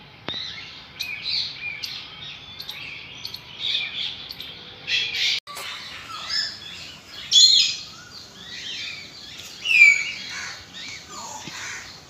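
Many birds chirping and calling over one another, with a few calls louder than the rest. The sound cuts out for an instant about five seconds in.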